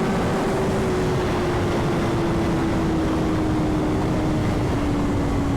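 Sport bike engine running at high revs while riding, its steady note falling slowly and evenly as the bike eases off, under heavy wind rush.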